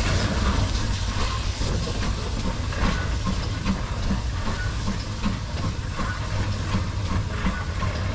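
Steam train running, with a steady low rumble and hissing steam. Over it comes a regular light knocking about twice a second.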